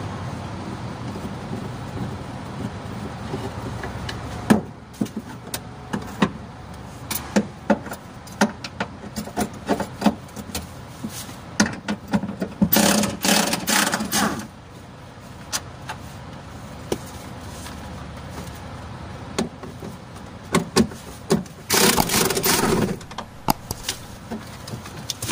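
Hand work on a truck's cab and fittings: a run of sharp clicks and knocks, with two longer, louder rattling, scraping stretches, one in the middle and one near the end. A steady low hum stops about four seconds in.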